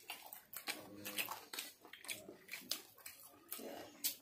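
People chewing and lip-smacking on spicy chicken lollipops: a quick, irregular run of sharp wet smacks and clicks from mouths close to the microphone.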